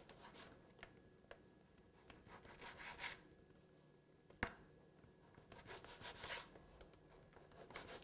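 Faint scraping of a knife carving a sponge cake, a few soft strokes, with one sharp tap about four and a half seconds in.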